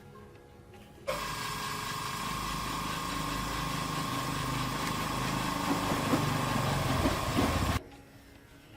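A small engine or motor running steadily with a fixed whine. It cuts in abruptly about a second in and cuts off abruptly near the end.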